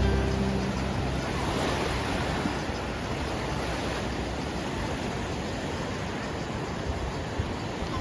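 Steady rush of surf, with no breaks between waves. In the first second a low humming tone fades out.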